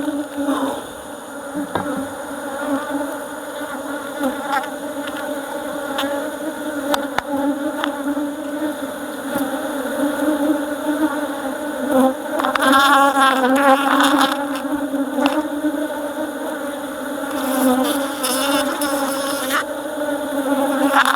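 A swarm of honeybees buzzing around an opened hive: a steady, dense hum with a pitch that wavers slightly as bees fly close.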